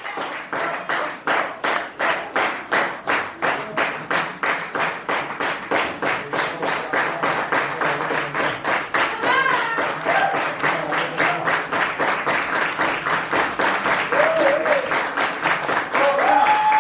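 Concert audience clapping in unison, a steady beat of about three claps a second, with a few short whoops and shouts from the crowd.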